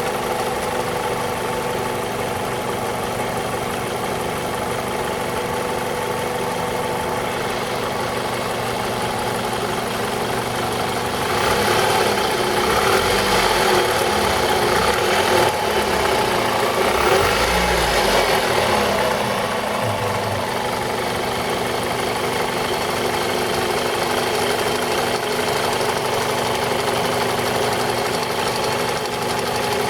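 Toyota RAV4 engine running at idle with a knock, which the owner suspects comes from the VVT-i cam-timing coupling. The sound grows louder for several seconds in the middle, then settles back to idle.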